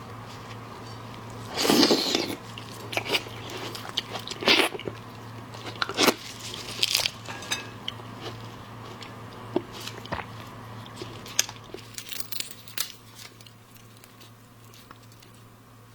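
Close-miked eating of seafood: a run of sharp cracks, crunches and wet clicks, the loudest about two seconds in, thinning out toward the end. A low steady hum runs underneath.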